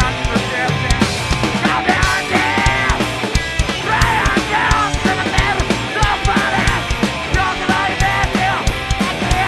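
Live rock band playing loud, fast punk-style rock with drums, distorted guitars and bass, with a wavering lead line running over it from about two seconds in.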